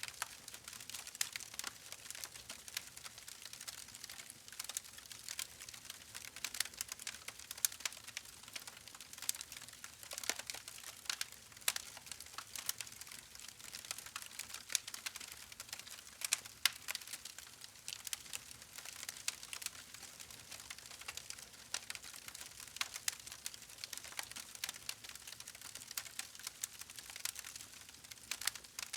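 Wood fire crackling: a dense, irregular stream of sharp pops and snaps over a soft steady hiss.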